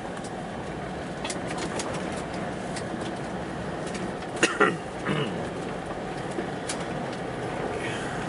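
Car driving on snowy roads: steady road and engine noise, with a few light clicks and a brief, loud, squeaky sound about four and a half seconds in.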